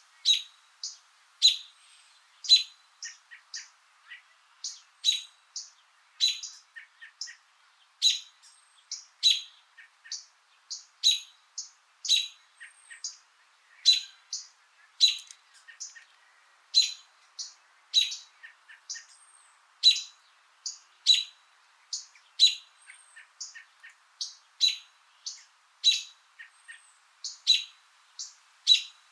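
A small bird chirping over and over: short, sharp, high chirps about once a second, with fainter chirps in between.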